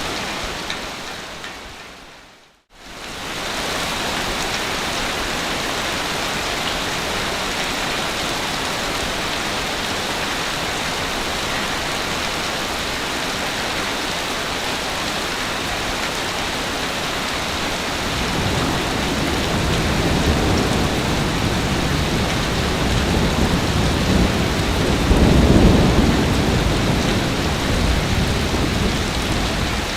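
Sea waves on a beach: steady surf hiss that fades out to a moment of silence about two and a half seconds in, then comes straight back. In the last third a bigger wave builds and breaks with a deep rumble.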